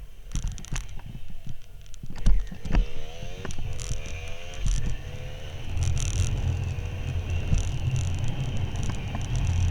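Motorcycle engine accelerating, its pitch climbing in steps through the gears, then the bike riding on at a steady speed with wind rumbling on the helmet microphone. A few clicks and knocks come first, before the engine is heard.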